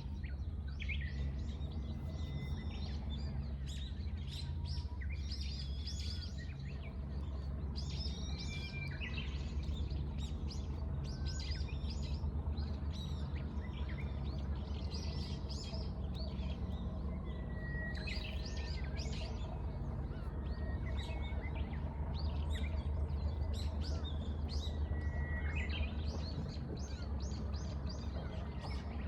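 Several small birds chirping and singing, short calls and brief whistled notes again and again, over a steady low rumble.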